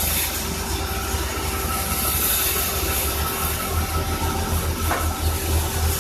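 Sawmill machinery running steadily: a low pulsing rumble with steady tones and hiss, and a brief sharper sound about five seconds in.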